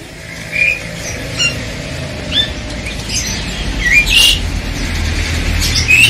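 Caged songbirds giving short chirps and squawks, about six separate calls with the loudest about four seconds in, over a low rumble that builds in the second half.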